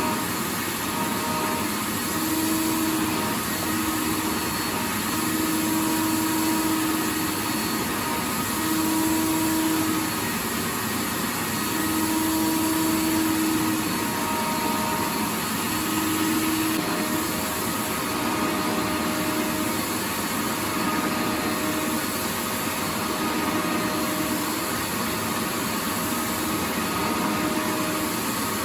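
Vacuum cleaner running continuously: a steady airy rush, with a motor hum that drops in and out every second or two.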